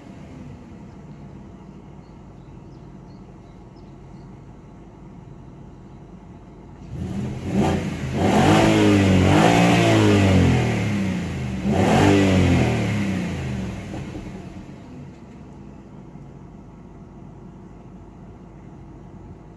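Audi S6 C5's 4.2-litre V8 idling steadily, then revved several times about seven seconds in, the revs rising and falling for some seven seconds before settling back to idle.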